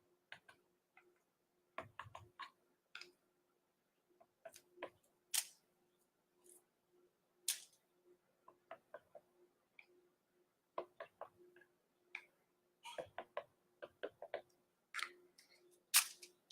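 Scattered light clicks, taps and brief scrapes from handling paint bottles, cups and mixing sticks while preparing acrylic paint, over a faint steady hum.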